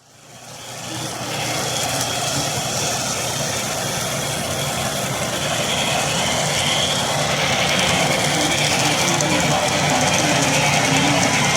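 Sound system of an HO-scale Broadway Limited Imports model steam locomotive running, a steady hiss and low rumble that fades in over the first second or so.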